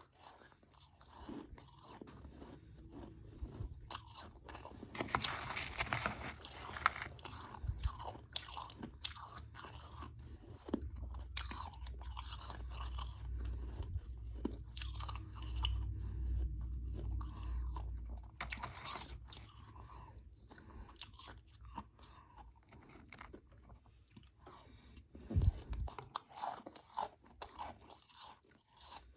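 Close-miked crunching and chewing of frozen powdery freezer ice with some harder chunks: many short crunches, densest and loudest about five to seven seconds in, with a low rumble through the middle.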